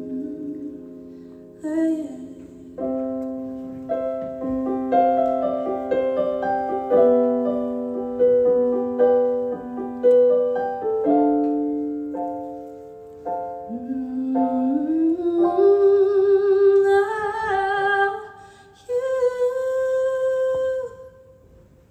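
Piano or keyboard playing the closing bars of a song live, note by note under held chords. About fourteen seconds in, a female voice slides up and holds long wordless notes with vibrato, then the music stops shortly before the end.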